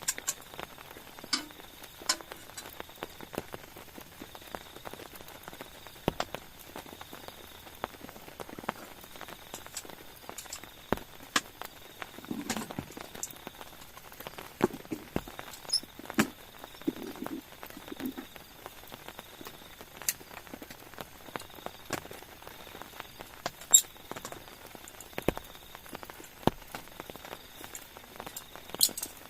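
Scattered light taps and clicks at irregular intervals over a faint steady hiss, with a few soft low thuds about halfway through.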